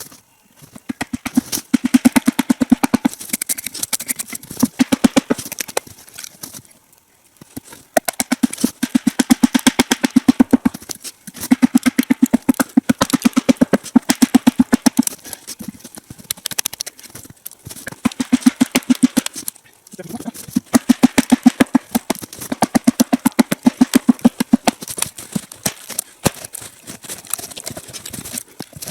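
Rapid, regular blows on wood in runs of one to three seconds with short pauses between them: wedges being driven into a log to split it lengthwise.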